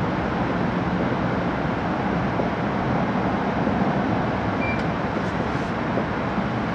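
E5 series Shinkansen running at speed, heard from inside the passenger cabin: a steady, even rumble and rush of wheels, track and air, with a few faint clicks about two-thirds of the way through.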